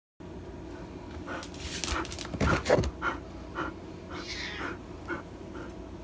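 A dog whimpering in a run of short, repeated cries about every half second, loudest a little over two seconds in.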